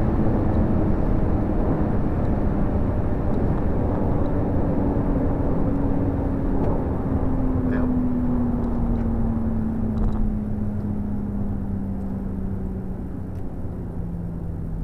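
BMW M135i's turbocharged straight-six with M Performance exhaust, heard from inside the cabin at speed over steady road and wind noise. The engine note falls slowly and steadily as the car slows.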